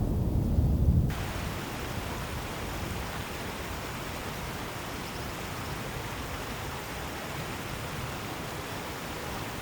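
A deep rumble that cuts off suddenly about a second in, giving way to a steady, even rushing hiss of outdoor ambience.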